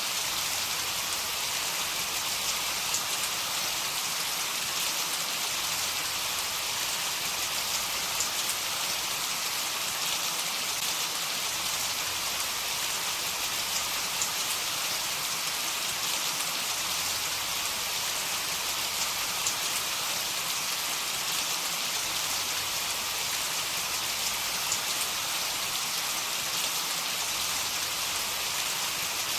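Heavy rain falling steadily, a dense even hiss with the odd sharper drop standing out.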